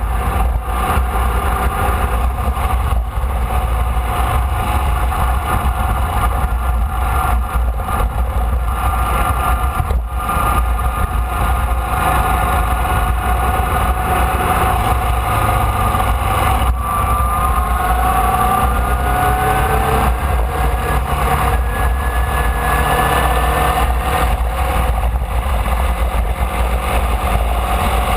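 Formula Vee's air-cooled Volkswagen flat-four engine running, heard onboard over a heavy low rumble. Its pitch climbs slowly for several seconds in the second half as the car accelerates.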